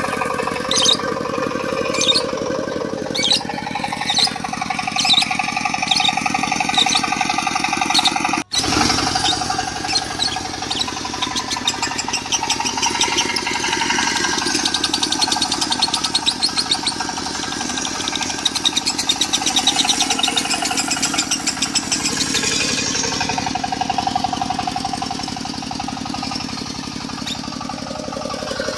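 Lovebird chattering in sharp repeated chirps and long rapid trills, the non-stop 'konslet' style, mixed over a diesel engine running steadily. The sound cuts out for a moment about eight and a half seconds in.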